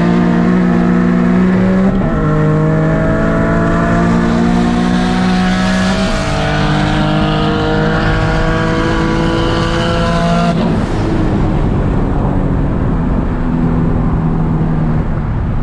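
A turbocharged car engine pulling hard through the gears under full throttle. The pitch climbs, drops back at upshifts about two and six seconds in, then climbs again until the revs fall away about ten and a half seconds in as the throttle is lifted.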